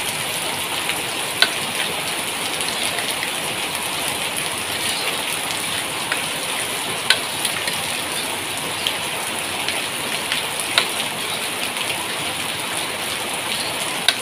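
Red curry paste and coconut milk sizzling in a hot pan, a steady hiss, with a few sharp clicks of a metal spatula against the pan as it is stirred. This is the stage of frying the paste in coconut milk until the oil separates.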